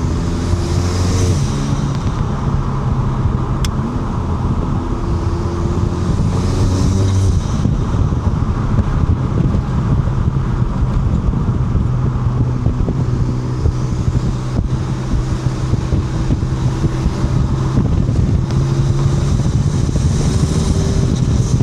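Mk7 Volkswagen Golf GTI's turbocharged 2.0-litre four-cylinder, fitted with a 4.5-inch downpipe, heard from inside the cabin while driving with the windows down. The engine note climbs and then drops back a few times, as at gear changes, over steady wind and road noise.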